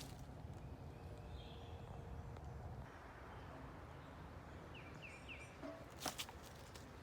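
Faint outdoor ambience: a steady low rumble, with a small bird giving three short, quick chirps about five seconds in and a couple of brief crunches about a second later.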